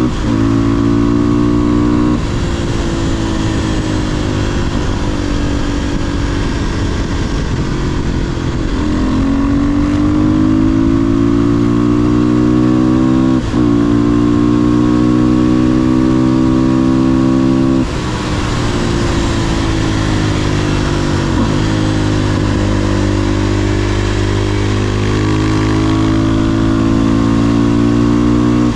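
500cc supermoto motorcycle engine ridden hard: its pitch climbs under throttle and sinks as it slows, with several short breaks in the note where gears are changed.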